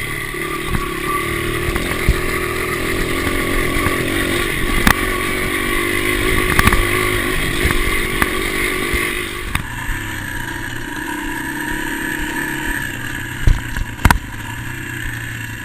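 Honda XR 80's small single-cylinder four-stroke engine running steadily under a dirt bike being ridden, with occasional sharp knocks. The engine note changes abruptly about ten seconds in.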